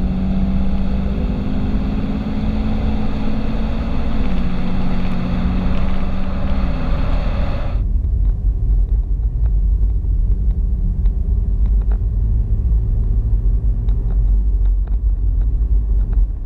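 Ford Mustang 3.7-litre V6 running through a Roush axle-back exhaust with a single-chamber muffler, an aggressive, raspy note holding a steady engine speed. About eight seconds in, the sound changes suddenly to a deep low rumble.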